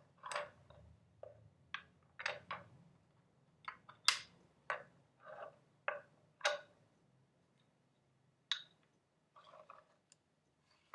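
Irregular short clicks and crackles from small objects handled close to the microphone, about a dozen in the first seven seconds, then a few sparser ones.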